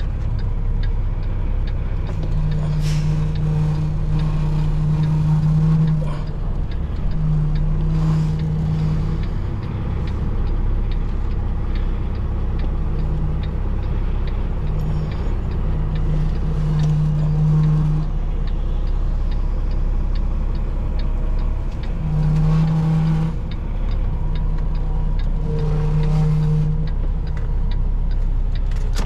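Semi truck's diesel engine running during slow reversing, heard from inside the cab as a steady low rumble. A deeper hum swells in and out about eight times, each time for one to four seconds.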